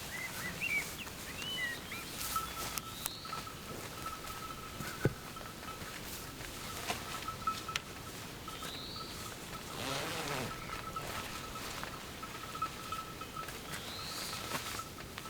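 Forest birdsong: a bird repeats a short rising whistle every few seconds, with a few quick chirps at the start. A faint steady pulsing hum runs underneath from about two seconds in, and a few sharp clicks and knocks sound around the middle.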